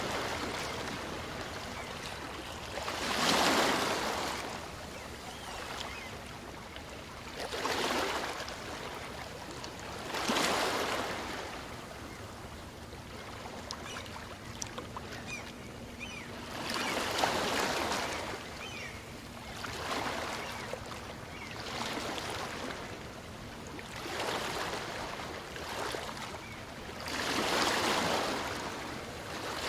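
Small waves breaking and washing up a beach on a calm sea, a surge of surf every few seconds that swells and fades back.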